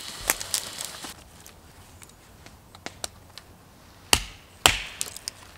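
Sharp crackling clicks, then two loud knocks about half a second apart near the end.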